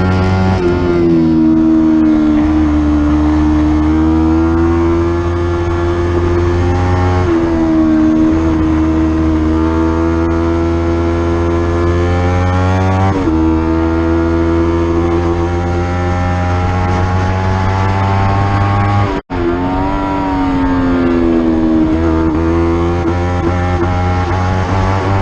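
Racing motorcycle engine heard onboard at full race pace. The pitch rises and falls with the revs and drops sharply at gear changes about 7 and 13 seconds in. The sound cuts out for an instant about 19 seconds in.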